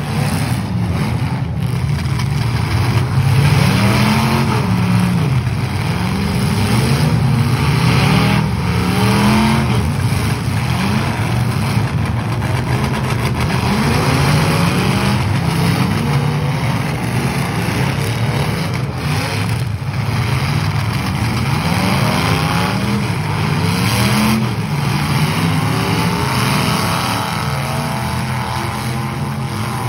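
Several demolition derby cars' engines revving hard, their pitch rising and falling again and again as the cars accelerate, back up and ram each other.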